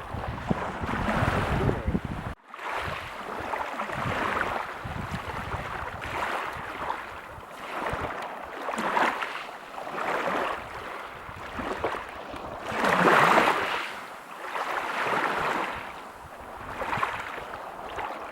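Ocean waves breaking and washing up a beach, the surf swelling and fading every second or two, with the loudest wave about two-thirds of the way through. The sound cuts out for a moment about two seconds in, and wind rumbles on the microphone before that.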